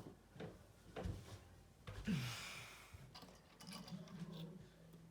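Faint knocks and clicks of small objects being handled, with a short hiss about two seconds in.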